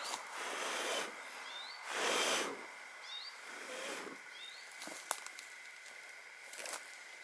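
A bird repeating a short rising call about every second and a half, over bursts of rustling noise, the loudest about two seconds in, with a few sharp clicks about five seconds in.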